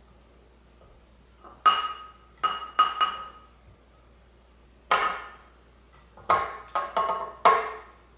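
A kitchen utensil knocked against the mixing bowl to shake off softened butter: about eight sharp ringing clinks in irregular groups of two or three.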